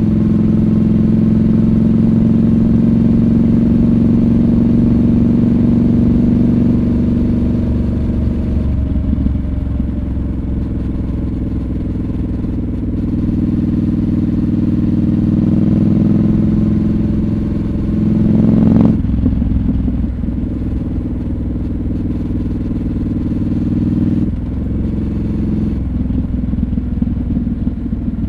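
Triumph Scrambler 1200 XC's 1200 cc parallel-twin engine running under way. Its note eases about a third of the way through, builds again, then drops abruptly about two-thirds of the way through and carries on lower.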